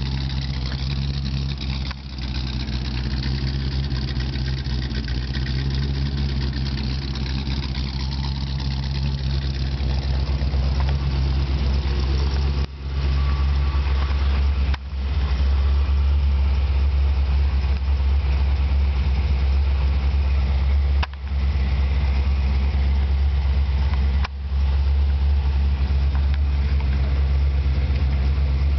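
1955 Chevrolet's engine running steadily at idle.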